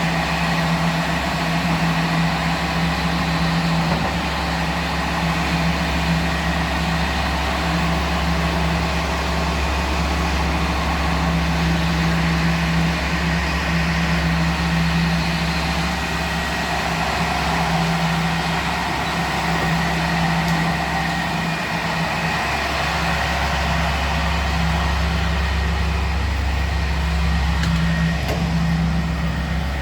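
Locomotive of a Corail train standing with its machinery running: a steady, unchanging hum with a constant low tone, like an engine idling.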